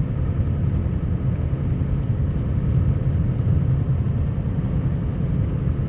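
Scania R560 truck's V8 diesel engine running steadily while plowing snow: a continuous low drone.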